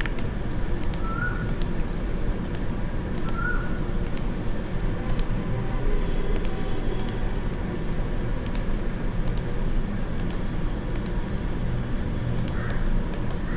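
Computer keyboard keys clicking now and then, often in quick pairs, as shortcut keys are pressed, over a steady low background hum.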